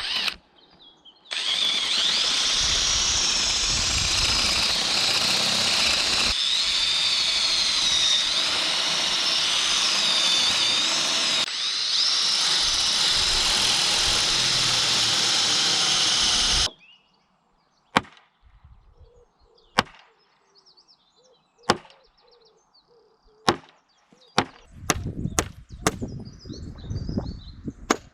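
A power tool running under load in the timber of an old wooden farm gate, its high whine wavering as it works, in three cut-together stretches of about fifteen seconds in all. It stops suddenly and is followed by a series of sharp single knocks, roughly one every two seconds.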